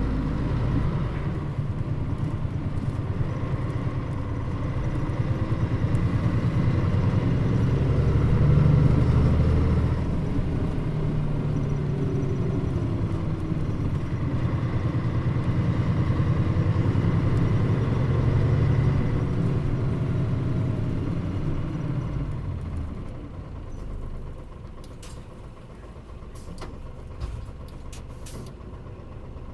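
Mitsubishi Fuso Aero Star bus's diesel engine heard from inside the cabin, running under way with its note rising and falling. About 22 seconds in it drops away to a much quieter steady running, with a few sharp clicks near the end.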